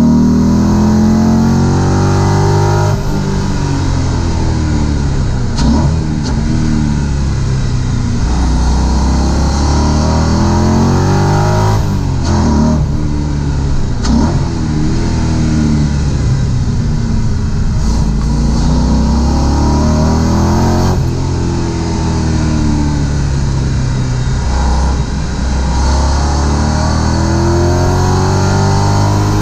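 Audi V8 swapped into a Porsche 986 Boxster, heard from inside the cabin at full track pace: the engine note climbs hard under acceleration, breaks at each gear change and falls away under braking, over and over through a lap.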